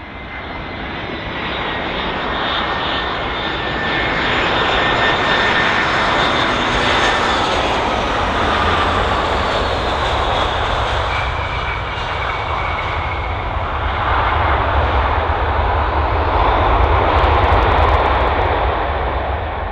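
Airliner landing close by: engine noise swells as it approaches and a whine falls in pitch as it passes, then the noise swells again late on before easing.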